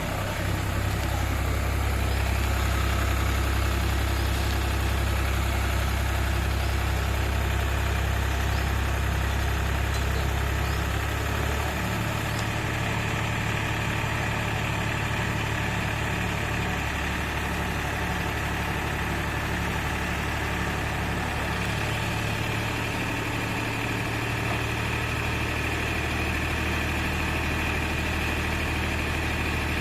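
Tractor's diesel engine running steadily during sand unloading, its low note shifting about twelve seconds in and again around twenty-two seconds.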